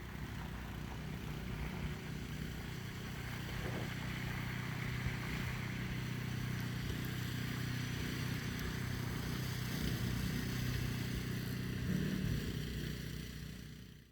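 An engine running steadily with a low hum under a broad hiss of noise.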